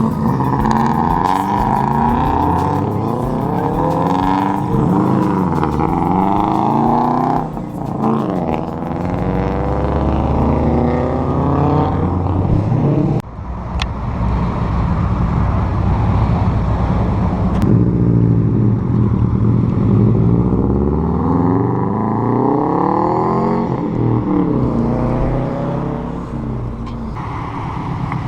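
Subaru car engines revving and accelerating, the engine note climbing and falling again and again. The sound breaks off abruptly and changes a few times.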